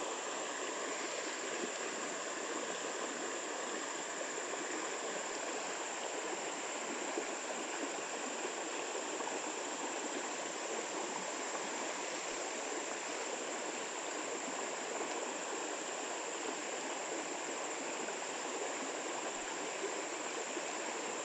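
Creek water running steadily over rocks in a current, with a thin, steady high-pitched tone above it.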